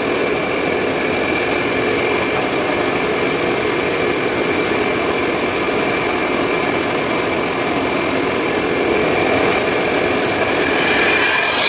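Car wash vacuum running steadily, a loud motor noise with a constant high whine over it.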